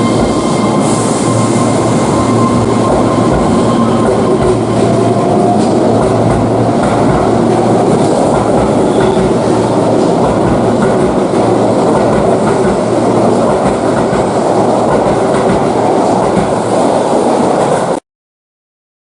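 Train running on rails: a steady, loud rumble with clickety-clack, and a few faint steady tones early on. It cuts off suddenly near the end.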